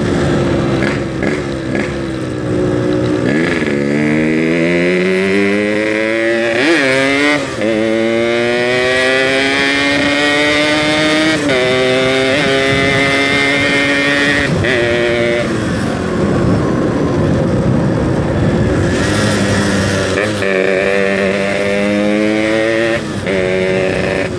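Yamaha RX-King single-cylinder two-stroke motorcycle engine accelerating through the gears, its pitch climbing in each gear and dropping back at each shift several times, then running steadier and picking up again near the end. The rider calls the engine very noisy and says it needs an oversize rebore.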